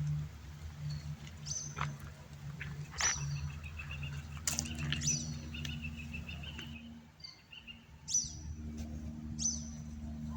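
Wild birds calling: a short high chirp repeated every second or two, with a rapid trill running for a few seconds in the middle. A steady low hum sits underneath.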